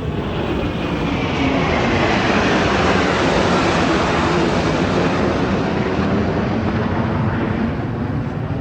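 Jet aircraft flying past with a loud roar that swells about two seconds in. A high whine falls in pitch as it goes by, and the roar eases slightly near the end.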